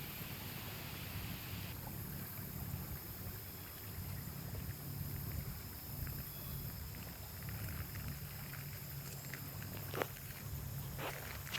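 A steady low rumble under a faint hiss, with a couple of brief clicks near the end.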